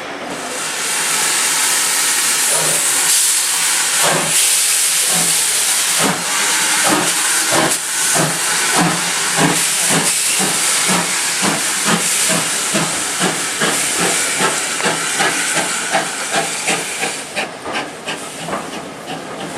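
Steam locomotive pulling away with a loud hiss of steam and a regular exhaust beat that quickens as it gathers speed. The hiss dies away near the end.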